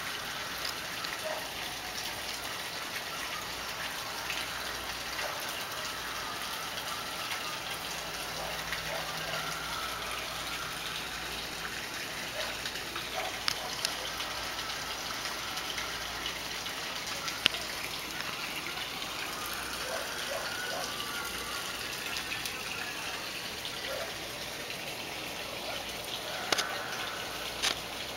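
Cicadas buzzing steadily, with a few soft clicks.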